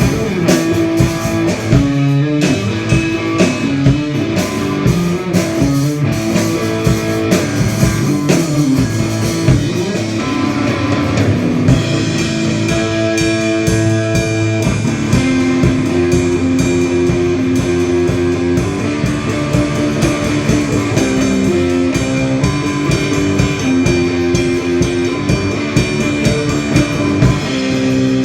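Rock band playing an instrumental passage, with electric guitar over a drum kit keeping a steady beat.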